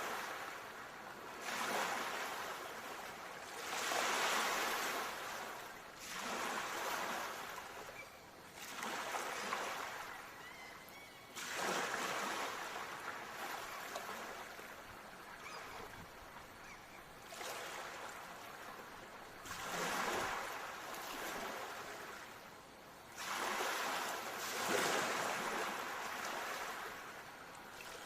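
Ocean surf: waves breaking and washing in, a rushing hiss that swells and ebbs every few seconds.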